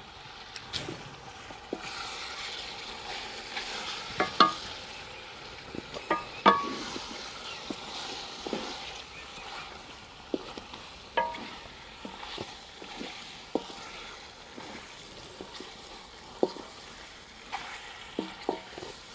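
Fish pieces frying in masala in a large aluminium pot with a steady sizzle, while a wooden spatula stirs them. The spatula knocks against the pot's side a dozen or so times, some knocks with a short metallic ring, the loudest about four and six seconds in.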